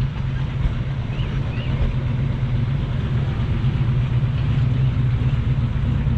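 A car engine idling steadily with a low, even rumble.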